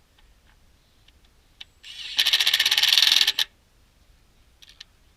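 Power tool driving a bolt on the transmission pan: a loud burst of rapid, even clicking about two seconds in, lasting just over a second, with a few small metallic clicks before and after.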